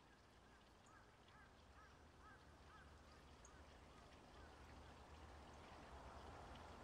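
Faint series of short, arched bird calls, about two a second, dying away after about three seconds, with a steady rushing noise rising near the end.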